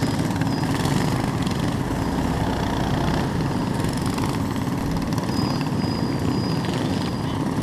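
Small mini bike engine running steadily, a continuous low motor drone.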